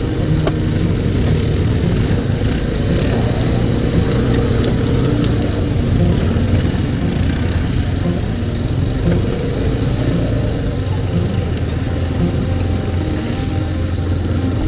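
ATV (quad bike) engine running steadily while riding.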